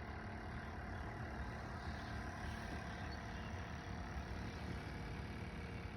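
Steady low background rumble with a faint hum, even throughout, with no distinct events.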